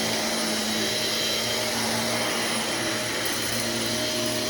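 Old bagged-less vacuum cleaner with a dust bin running steadily: an even rush of air with a steady motor whine.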